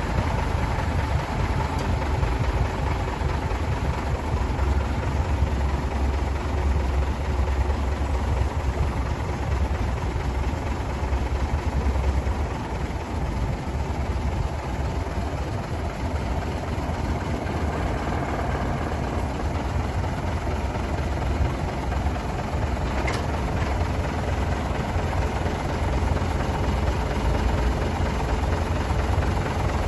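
Engine of a MAN F2000 19.322 truck, an inline six-cylinder diesel, running steadily with a deep rumble, easing slightly about halfway through.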